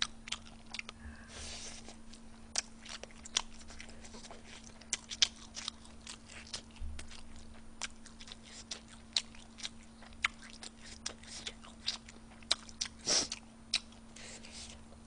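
A person chewing food close to a microphone: irregular crisp clicks and crunches with wet mouth sounds, and a louder crunch near the end, over a faint steady hum.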